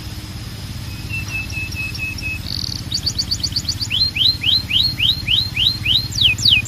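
Canary singing in changing phrases: a row of short level notes, then a fast trill of falling notes, then a run of rising notes about four a second, ending in longer sweeping falling notes. A steady low hum runs underneath.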